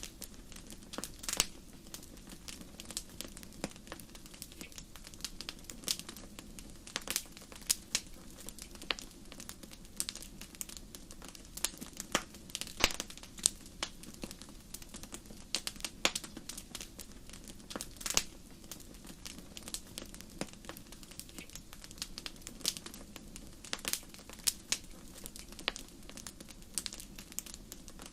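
Wood fire crackling in a fireplace: irregular sharp pops and snaps, some louder than others, over a steady low rush of the burning flames.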